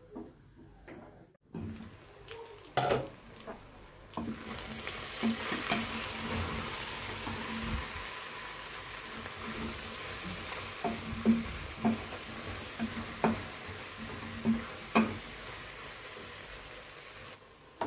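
Beef pieces frying in a stainless steel pot, sizzling while a wooden spoon stirs them and knocks against the pot now and then. The sizzle comes in about four seconds in and holds steady until just before the end.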